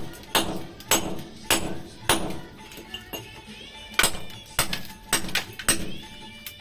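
Hammer blows struck repeatedly, about one to two a second, each sharp with a short ringing tail.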